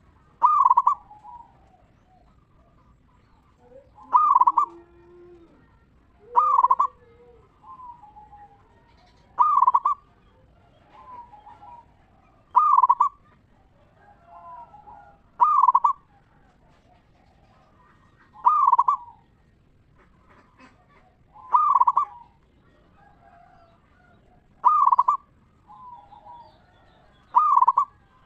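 Zebra dove (perkutut) singing its cooing call: a loud, short, clear phrase repeated about every three seconds, with fainter bird calls in between.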